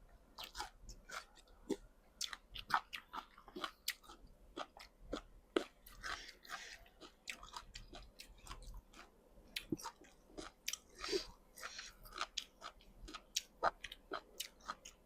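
A person chewing boiled frog close to the microphone: irregular wet mouth clicks and smacks, with small crunches.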